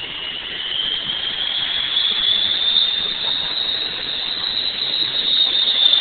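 Bell 205 helicopter's turboshaft engine whining during start-up, the whine rising in pitch over the first two seconds as it spools up, then holding steady.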